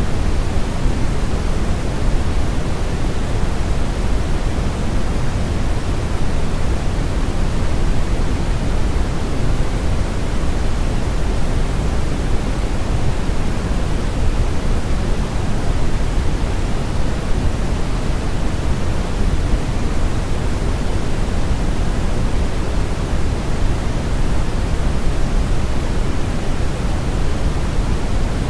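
Steady brown noise: an even, unchanging hiss-like rumble, heaviest in the bass and falling off toward the treble.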